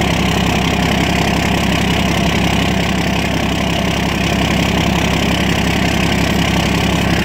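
1998 Ram 3500's 12-valve Cummins inline-six diesel idling steadily just after a cold start at about 10 degrees Fahrenheit.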